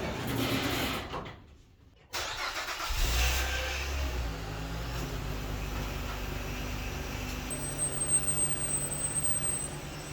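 Car engine starting about three seconds in after a brief lull, then running steadily at idle, with a thin high whine joining in past the middle.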